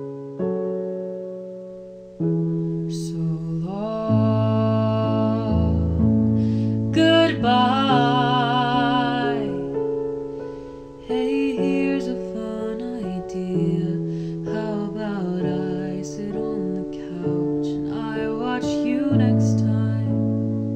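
Song performed by a young singer with piano accompaniment: sustained piano chords under a sung melody with long, wavering held notes about three seconds in and again about seven seconds in.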